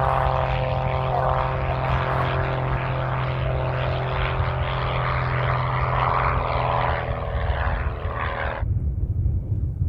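Howard 500's twin Pratt & Whitney R-2800 radial engines and propellers droning steadily. The drone cuts off suddenly near the end, leaving a low rumble.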